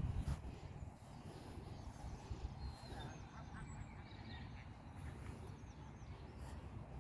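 Outdoor ambience: low rumbling wind on the microphone, with a few faint bird calls, short chirps, scattered through the middle.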